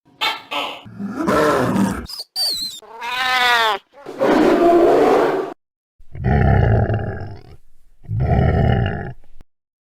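A run of monster roar and growl sound effects, one after another with short gaps: a growl, a brief high shriek, a pitched howl, then three long roars, the last two alike.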